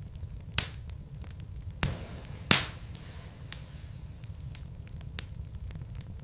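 Wood fire burning in a fireplace: a steady low rumble of flames with scattered crackles and three louder pops from the burning logs, the loudest about two and a half seconds in.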